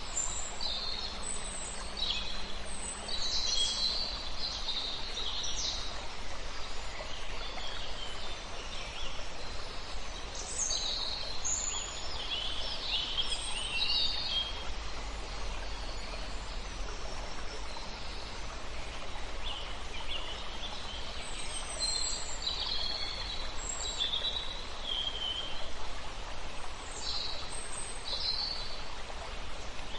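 Several songbirds singing and calling in short, high phrases over the steady rush of a flowing river. The bird phrases come in clusters, busiest a few seconds in, around the middle and again near the end.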